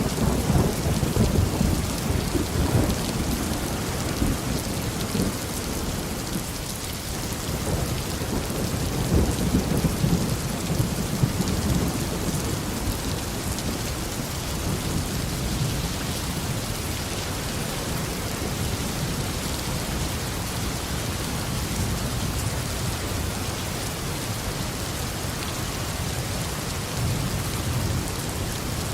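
Steady tropical downpour, with thunder rumbling low that dies away over the first several seconds and swells once more about ten seconds in.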